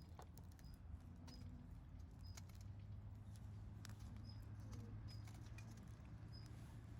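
Wood campfire crackling faintly, with a few scattered sharp snaps over a low steady background.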